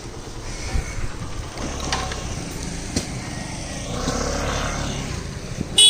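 Road vehicle running, a steady low rumble with small knocks and rattles, and a brief loud sound near the end.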